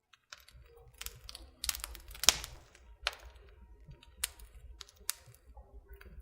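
Irregular light clicks and taps with faint rustling between them, the sound of small objects being handled; the sharpest click comes a little over two seconds in.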